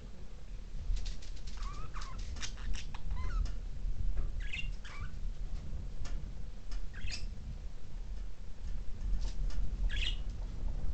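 Pet budgerigars chirping and chattering in short, quick calls and clicks, over a steady low rumble.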